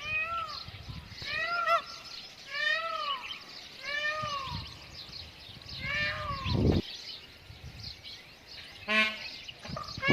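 Indian peafowl calling over and over, with a run of wailing calls that rise and fall in pitch, about one every second and a half. A short, rapid, stuttering call comes near the end.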